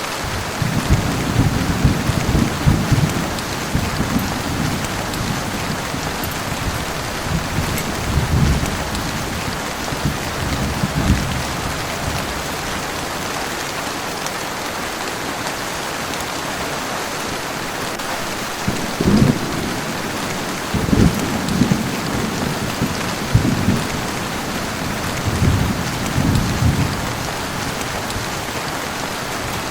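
Heavy rain falling steadily, with a run of short, low rumbling bursts, several in the first dozen seconds and more in the last third.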